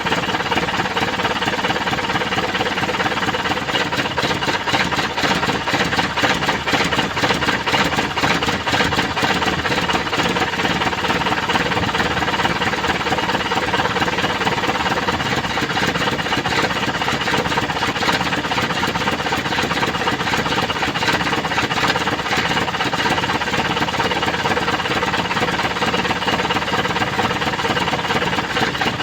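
Mitsubishi Canter 4D32 four-cylinder diesel engine running steadily at idle with a fast, even diesel clatter.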